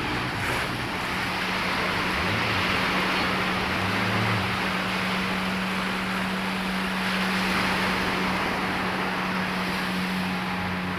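Motorboat engine running at a steady drone, with wind and the wash of waves around it.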